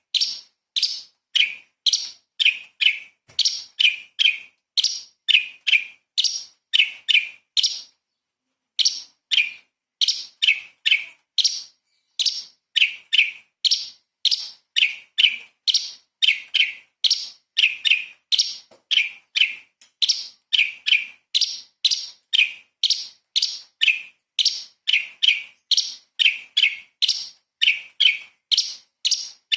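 Cucak cungkok (orange-bellied leafbird) calling in a rapid, unbroken series of short, sharp, down-slurred notes, about two a second, with one brief pause about eight seconds in.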